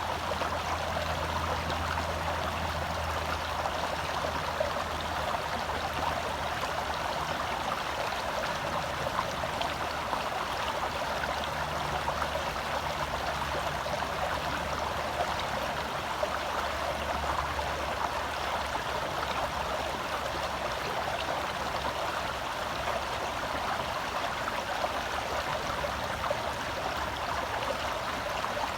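A forest stream running steadily over rocks as an even rushing babble, with a faint low hum underneath.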